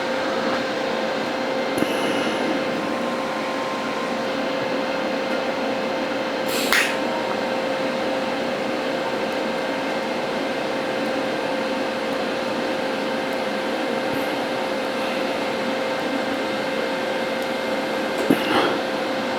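TIG welding arc on stainless steel, a steady hiss with a constant hum running under it, broken by a brief click about seven seconds in and again near the end.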